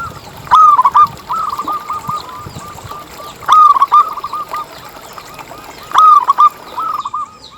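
Zebra dove (perkutut) cooing: three song phrases about three seconds apart, each a loud opening note followed by a run of softer, quicker coos.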